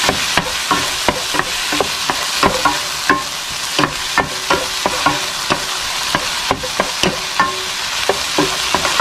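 Diced onion, garlic and tomato sizzling in oil in a nonstick frying pan, stirred with a wooden spoon that knocks and scrapes against the pan several times a second.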